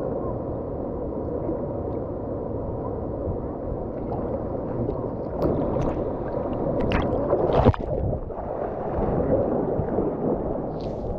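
Steady rush of whitewater in a river rapid, with one sharp hit about three quarters of the way through.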